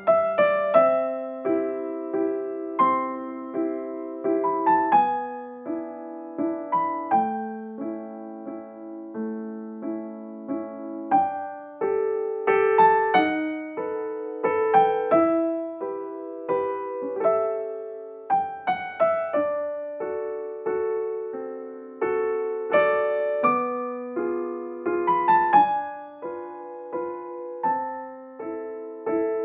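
Background piano music: a slow melody of single struck notes and chords, each fading after it is played.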